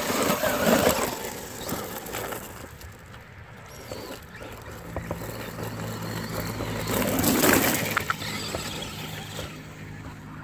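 Traxxas Rustler VXL RC trucks with brushless electric motors driving through mud, with two louder rushing bursts, one near the start and one about two-thirds through. A steady low hum runs under the second half.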